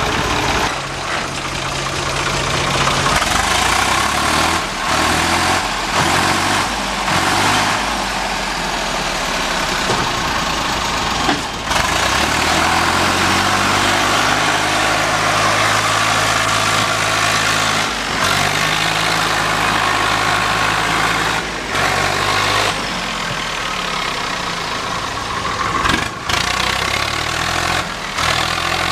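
Swaraj 744 FE tractor's diesel engine running at work, its speed rising and falling in steps, with a broad rushing noise over it and a few brief breaks.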